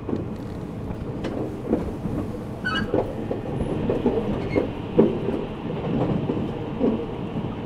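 Running noise of an E257 series limited express train heard from inside the car at speed: a steady low rumble with irregular clacks of the wheels over rail joints.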